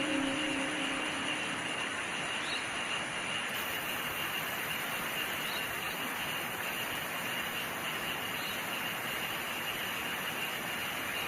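Steady rain hiss with crickets trilling in steady high bands, and a faint short chirp about every three seconds. A soft musical tone fades out in the first second.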